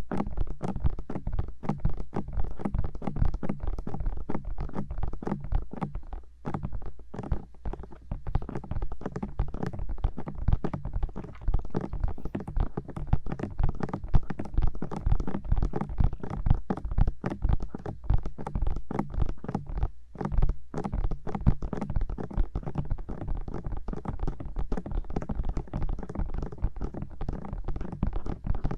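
Fingertips tapping rapidly on the silicone ears of a 3Dio binaural microphone, many quick dull taps a second with brief pauses.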